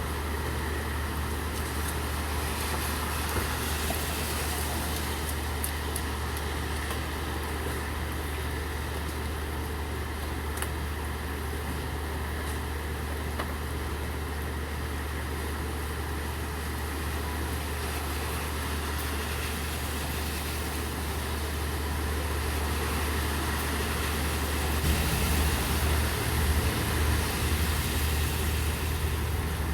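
Steady rain hiss over the low, steady hum of an idling vehicle engine. About 25 seconds in, the hum and hiss grow louder and rougher.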